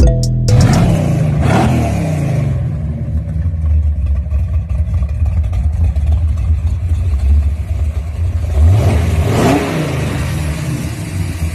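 Muscle car engine revved about a second in and again near the end, dropping back to a steady low idle in between.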